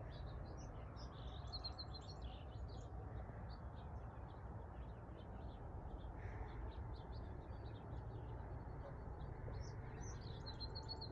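Faint chorus of small songbirds chirping and twittering, many short calls scattered throughout, with a quick repeated-note trill about a second and a half in and again near the end, over a low steady outdoor background rumble.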